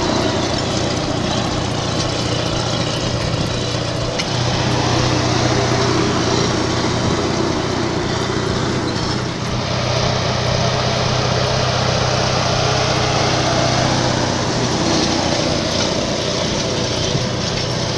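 Kirovets K-700A tractor's diesel engine running steadily under way, with a strong low hum. The engine note picks up slightly about four seconds in.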